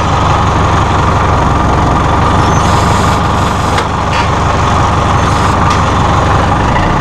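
Massey Ferguson 573 tractor's Perkins 4.4-litre four-cylinder diesel running steadily close to the microphone, with a few faint clicks about midway.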